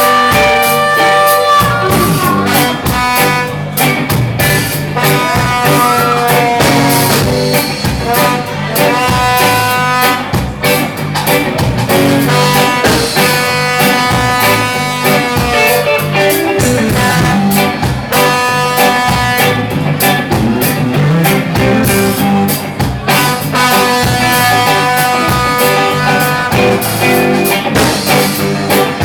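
Live rock band playing an instrumental passage of a song: drum kit and bass keeping the beat under guitar and a lead line of long held notes.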